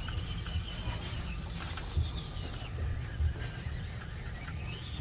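Small electric motor and gears of a 1/24-scale Axial SCX24 mini crawler whining, the pitch rising and falling with the throttle as it crawls the course, with a couple of light knocks.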